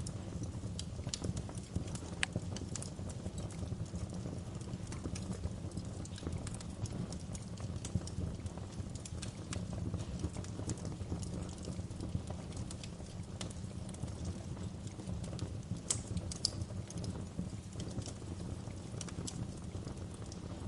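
Wood fire burning in a fireplace: a steady low rumble of the flames with irregular sharp crackles and pops, a few louder pops about two-thirds of the way through.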